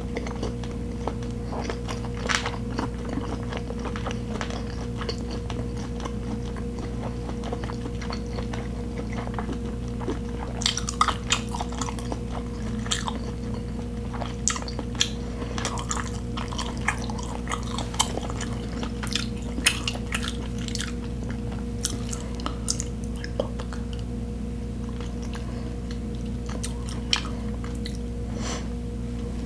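Close-miked chewing and biting: scattered sharp wet mouth clicks, busiest in the middle, over a steady low hum.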